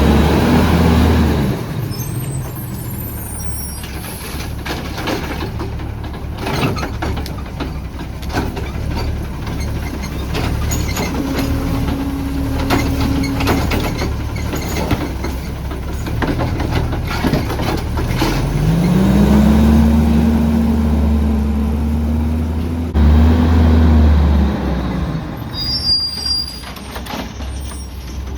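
CNG Autocar ACX garbage truck with a Heil Rapid Rail side loader, its engine running under clanks and knocks. The engine drops back from a high speed in the first two seconds, then revs up again about 18 s in, holds for about six seconds and falls back.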